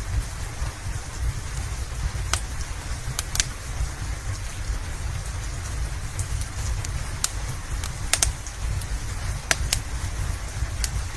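Steady rain with a low rumble underneath, mixed with a crackling wood fire in a fireplace: sharp pops and snaps scattered irregularly, roughly one every second or two.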